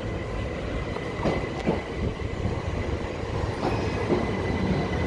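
Southern Class 377 Electrostar electric multiple unit coming into the platform: low rumble with a steady high whine and a few knocks about a second in.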